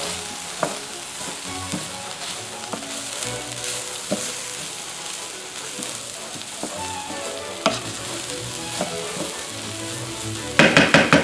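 Rice, chopped vegetables and breakfast sausage sizzling in a skillet on high heat while being stirred, with the utensil clicking against the pan now and then.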